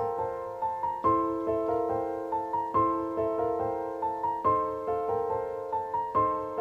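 Background piano music: a gentle repeating phrase of single notes.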